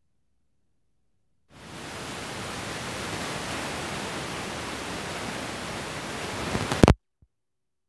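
A steady hiss of noise that starts suddenly about one and a half seconds in and cuts off abruptly near the end, just after a couple of sharp clicks.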